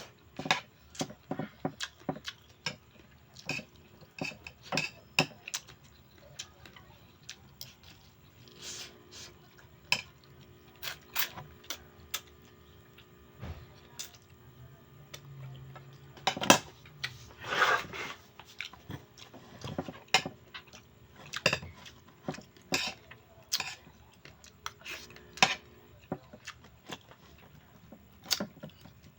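Spoon and fork clinking and scraping against a plate in irregular, scattered strikes while eating rice and chicken adobo, with a few louder clinks about halfway through, and quiet chewing between them.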